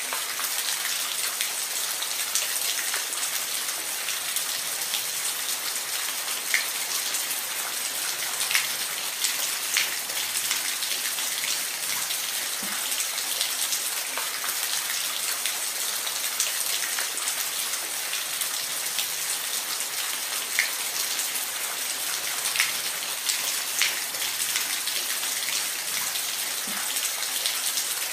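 Steady falling water: an even hiss with scattered drips and splashes standing out from it now and then.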